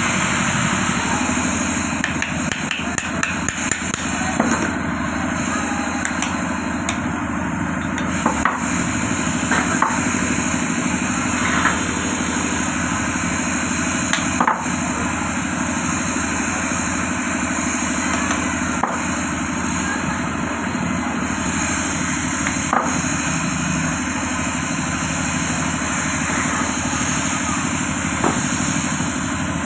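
Irregular hammer taps and knocks on metal parts of an electric water-pump motor, a dozen or so spread over the stretch, over a steady engine-like background noise.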